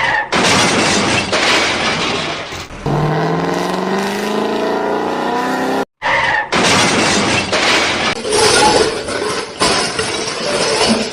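Vehicle sound effects: loud rushing noise, then an engine revving with a slowly rising pitch for about three seconds, cut off suddenly, followed by more loud rushing noise.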